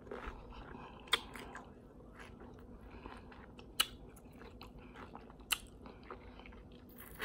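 Close-miked chewing of a mouthful of taco food: soft, wet chewing with four sharp mouth clicks spaced a second or two apart.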